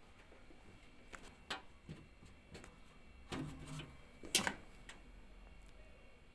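Scattered light clicks and knocks of parts and tools being handled during washing machine repair work, with one sharper click a little past the middle.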